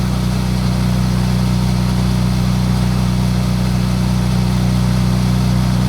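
BMW F800GS Adventure's parallel-twin engine running at a steady cruise, with a haze of wind and road noise over it.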